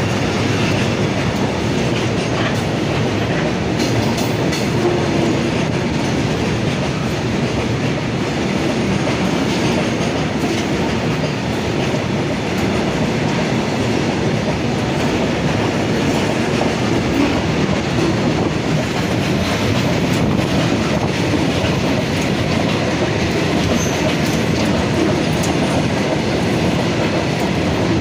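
Railway train rolling past at close range: the steady noise of its wheels running on the rails, with faint repeated clicks.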